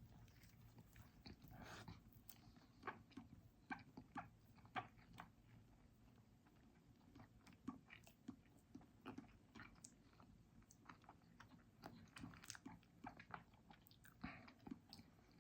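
Faint chewing of a chicken mayo burger with bacon: soft, irregular mouth clicks and smacks.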